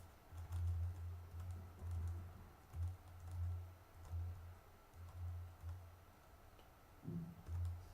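Computer keyboard typing, faint and irregular, as a terminal command is keyed in.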